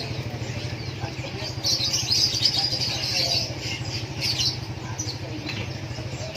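Many small caged birds chirping at once, in bursts of busy high twittering, over a steady low hum.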